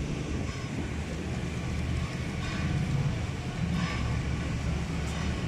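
Motorcycle engine running steadily at low revs, a low even hum.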